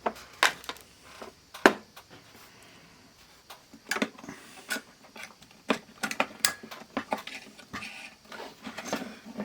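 Scattered plastic clicks and knocks from handling an analog multimeter while C batteries are fitted into it, sharpest about half a second and a second and a half in, with a busier run of clicks a few seconds later.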